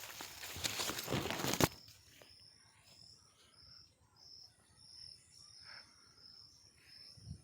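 Loud rustling for the first second and a half, cutting off suddenly. Then an insect chirps steadily, about twice a second, over a thin high steady whine.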